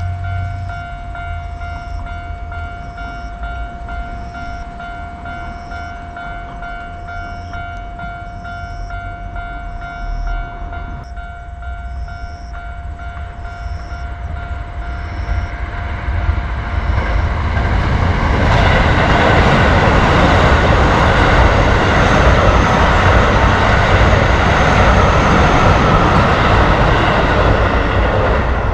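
Japanese railroad crossing warning bell ringing in a steady repeating beat, about once a second, over a low rumble. From about two-thirds of the way in, a train passes loudly, its wheel and car noise drowning out the bell.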